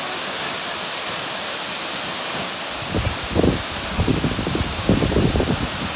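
Waterfall rushing as a steady, even roar. From about halfway through, irregular low rumbling knocks come in underneath it.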